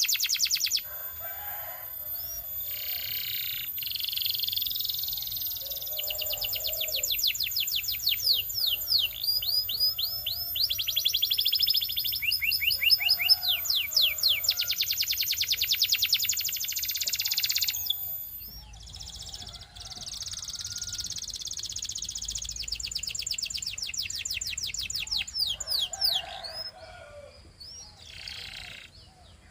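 Belgian canary singing: long runs of rapidly repeated notes and trills, some sweeping up or down, broken by short pauses, softer near the end.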